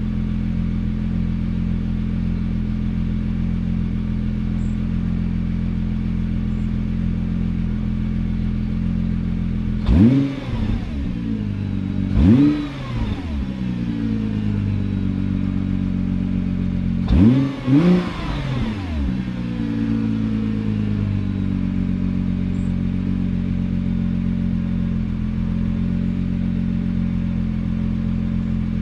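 Stock Nissan GT-R R35's twin-turbo V6 idling with its exhaust valve open, revved in short blips that each rise and fall back to idle: once about ten seconds in, again two seconds later, then twice in quick succession about seventeen seconds in.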